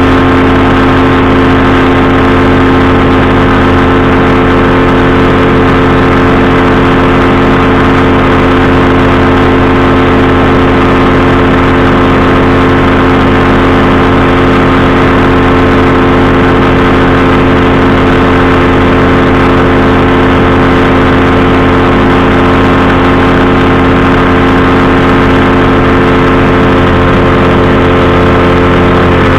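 Powered parachute's engine and propeller running at a steady, even speed, loud and unchanging.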